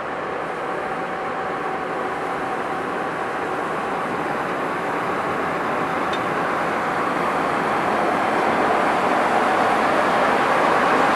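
ChS2K electric locomotive hauling a passenger train as it pulls away from the station, a steady running noise with a faint steady tone that grows gradually louder.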